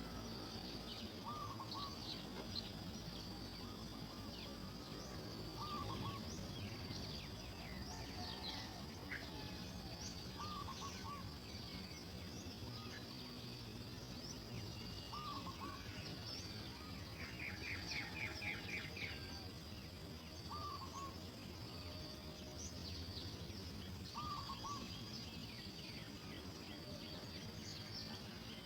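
Outdoor birdsong and insects: a steady high-pitched insect whine, with a short call repeating every four to five seconds, scattered high chirps, and a quick rattling series of about eight notes in the middle.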